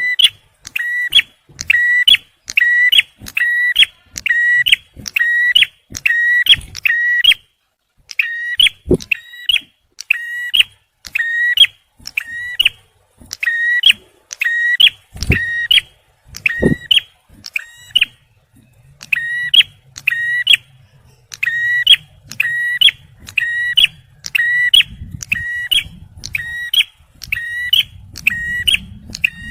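Male ciblek (bar-winged prinia) giving its rapid-fire 'tembakan' call: one short, sharp note repeated about twice a second in long runs with a few brief pauses. There are a few sharp knocks in between.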